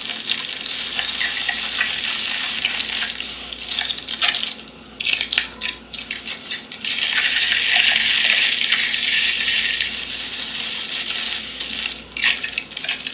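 Potato chips being crushed by hand inside their crinkly chip bag: a dense crackling and crunching, with brief lulls about five and twelve seconds in.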